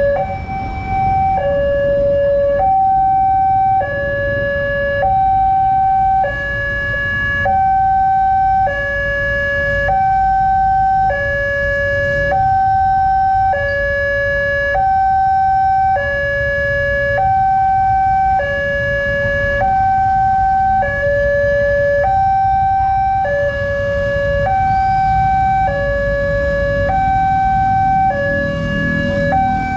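Railroad crossing's electronic warning alarm sounding a steady two-tone hi-lo signal, the higher and lower notes alternating about every second, warning that a train is approaching. Underneath is a low rumble of vehicle engines.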